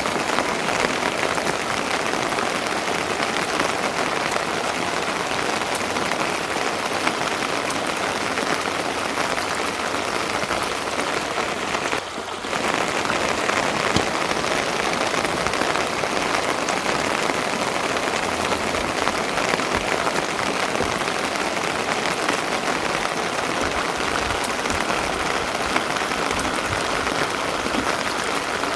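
Steady rain falling, a dense hiss of drops on surfaces, with a brief dip in loudness about twelve seconds in.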